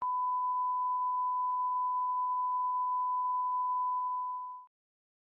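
A steady, pure electronic beep tone at about 1 kHz, like a test tone, held for over four seconds before cutting off. Faint ticks sound about twice a second from about a second and a half in.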